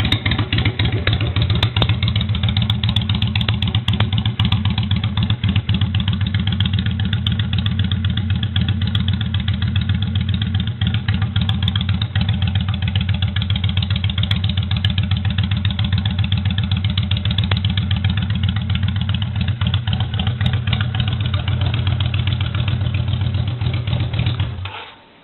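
Yamaha XV535 Virago's air-cooled V-twin engine idling steadily with an even, low exhaust note. The sound cuts out near the end.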